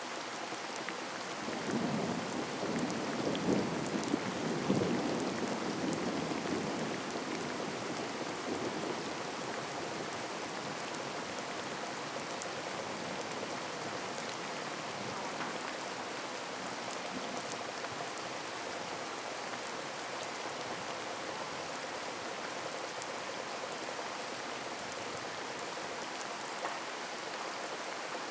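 Heavy rain falling steadily, with a low roll of thunder rumbling in about two seconds in and dying away by about nine seconds.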